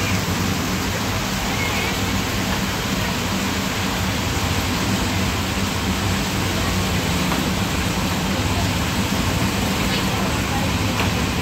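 Basa fish cake deep-frying in a large pan of hot oil: a steady, even sizzle, with a low steady hum underneath.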